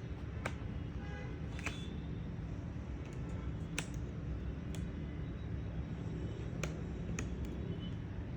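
Scattered sharp clicks and taps from hands and tools working at a laptop's plastic case while trying to open it, about six in all, over a steady low rumble.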